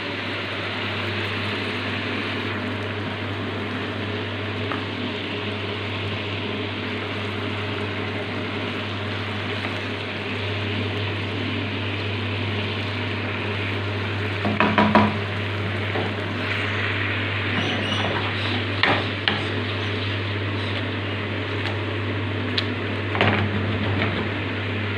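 Chicken giblets in a spiced yogurt sauce simmering and sizzling in a pan: a steady hiss over a steady low hum, with a few short knocks of the pan or utensil about halfway through and later.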